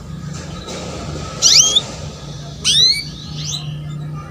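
Female canary calling: short, quickly rising chirps, a cluster about a second and a half in and another near three seconds, over a steady low hum. These are female calls of the kind used to stir a male canary into song.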